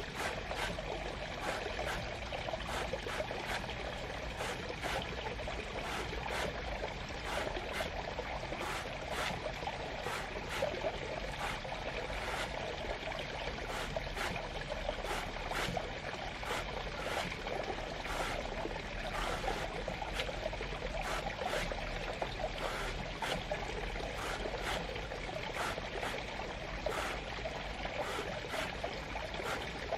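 Steady running water, with frequent short splashes or clicks throughout.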